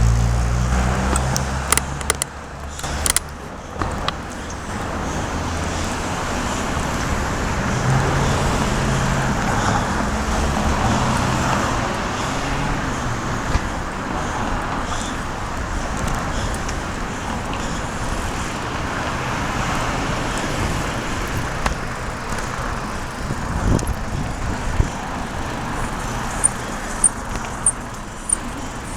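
City street traffic: cars and other motor vehicles passing in a continuous roadway rumble, with an engine hum in the first couple of seconds. Near the end come faint high ticks about twice a second.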